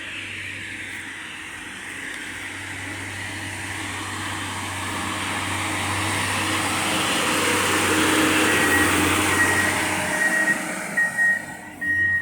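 On-track railway maintenance vehicle passing on the rails: engine and wheel noise builds to its loudest about eight seconds in, then eases. A high warning beep starts partway through and repeats about twice a second.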